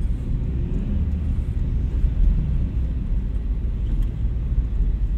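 Inside the cabin of a 2003 Suzuki Escudo 1.6 with the G16B 16-valve four-cylinder engine, driving: a steady low engine and road rumble.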